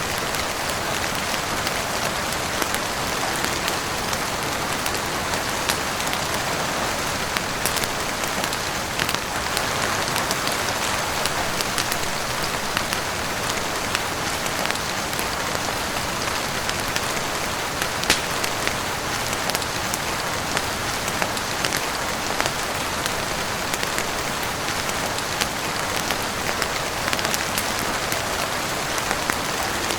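Steady heavy rain falling on a roof and windows: an even hiss of drops, with scattered sharp crackles from a wood fire. One crackle is louder, about two-thirds of the way through.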